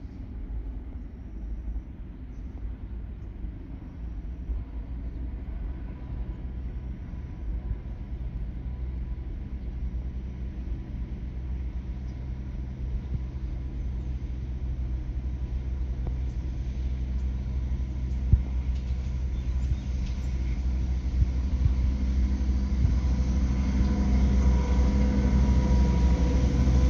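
Pair of DL-class diesel-electric locomotives approaching with a train: a low engine drone and rumble that grows steadily louder.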